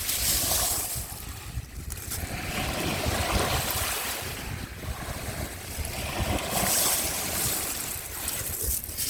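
Sea waves washing onto the shore, swelling and falling back about every three seconds, with wind rumbling on the microphone.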